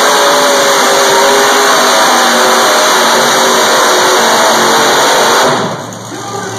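Competition pulling vehicle's engine running flat out under heavy load, loud and steady, then easing off about five and a half seconds in.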